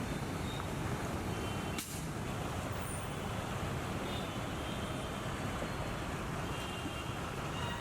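Road traffic: vehicle engines running with a steady low rumble, and one short sharp noise about two seconds in.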